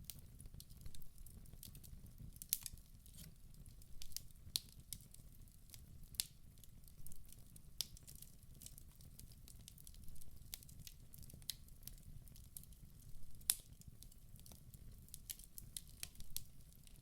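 Wood fire burning in a fireplace: irregular crackles and sharp pops from the burning logs over a low, steady rumble of the flames.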